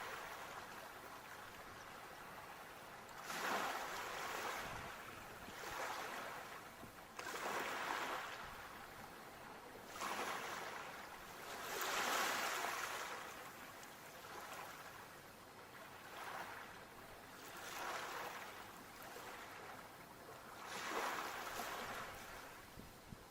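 Sea waves washing in, one surge of surf after another every two to four seconds, each swelling and then falling back into a steady hiss; the biggest comes about halfway through.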